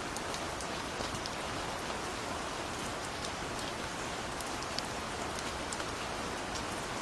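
Steady gentle rain falling, an even hiss with scattered individual drops ticking.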